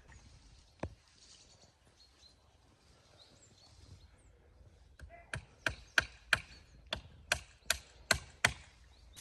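A single knock about a second in, then a quick run of about ten sharp chopping strikes, roughly three a second.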